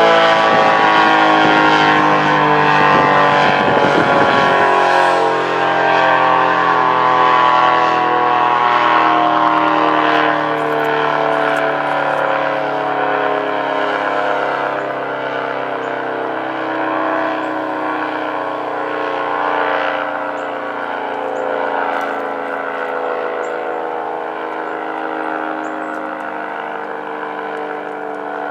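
ACA P-50 50-horsepower dual-tone rotating outdoor warning siren winding down, its chord sliding slowly and steadily lower in pitch while it gently swells and fades as the horn turns. A low rumble underneath stops about five seconds in.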